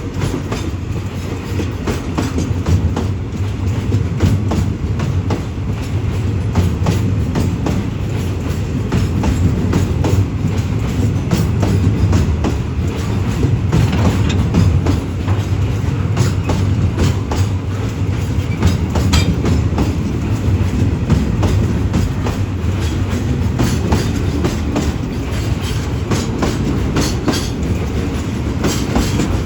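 A long freight train of oil tank wagons rolling past, its wheels clacking over the rail joints above a steady low rumble.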